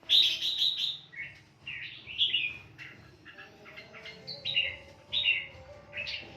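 A songbird singing: a quick run of loud chirps in the first second, then short warbled phrases repeated every half second or so.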